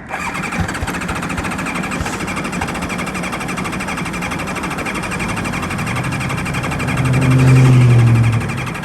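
Motorcycle engine cranking on its electric starter with a fast, even whir but not catching, a sign the owner takes to mean fuel starvation from a nearly empty tank. A louder low hum comes in for a second or so near the end.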